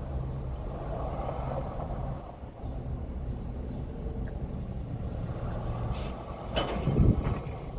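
Steady low hum, like an idling engine, with a louder burst of noise and low thumps about seven seconds in.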